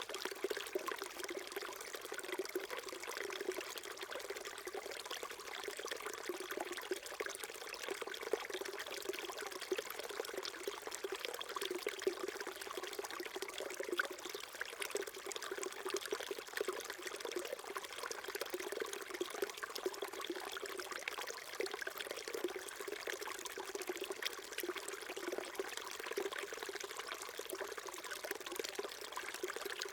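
Small mountain stream trickling and burbling over rocks, a steady gurgle that goes on without change.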